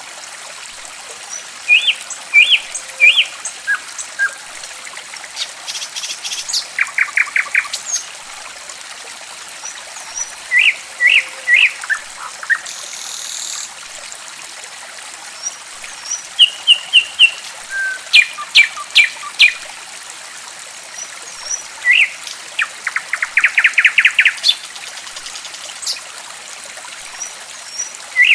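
Small songbirds chirping in short groups of rising notes and rapid trills, over steady trickling running water, as in a recording played to coax caged birds into singing.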